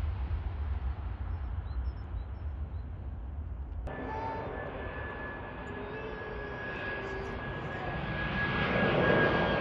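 Jet airliner engines: a deep rumble, then, after an abrupt change about four seconds in, a steady high-pitched whine over a rushing noise that grows louder toward the end.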